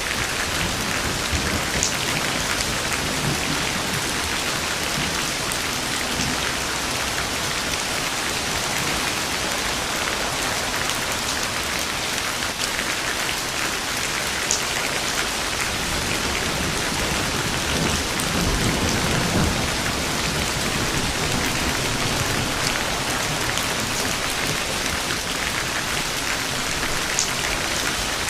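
Steady heavy rain falling on a surface, with scattered drop ticks. A low thunder rumble swells and fades about two-thirds of the way through.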